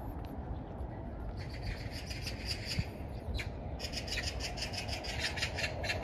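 A bird chattering in two quick runs of rapid, rattling calls, with a short break between them, over a steady low rumble.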